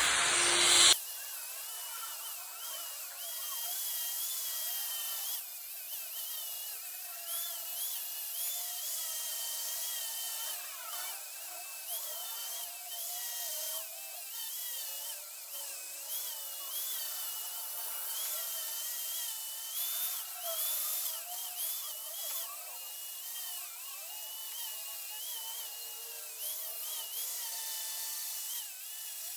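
Small high-speed rotary power tool carving wood, its whine wavering up and down in pitch as it bites in and eases off. A louder hiss cuts off about a second in.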